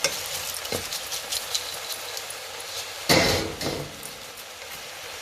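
Onion, garlic and spice mixture sizzling in a frying pan, with small clicks of utensil on pan. About three seconds in there is a sudden loud rush of noise as the seafood goes into the hot pan.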